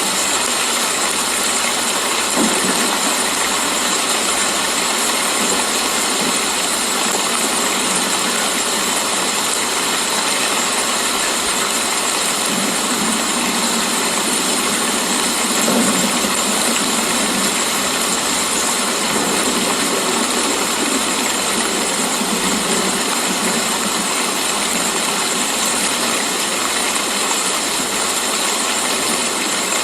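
Steady rain falling, an even, unbroken hiss that holds at one level throughout.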